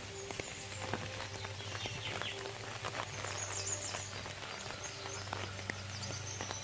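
Rain pattering and dripping, with scattered sharp drops, while small birds chirp in short, quick calls that fall in pitch, over a steady low hum.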